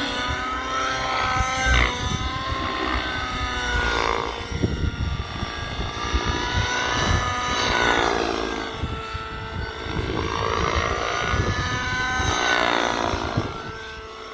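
Nitro RC helicopter in flight: its O.S. 105 HZR glow engine with tuned pipe and its rotors running, the engine note rising and falling repeatedly as it manoeuvres.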